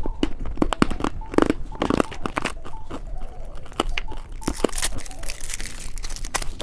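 Close-miked crunching and biting of a hard-candy lollipop: a run of irregular sharp cracks and crunches as the candy breaks between the teeth.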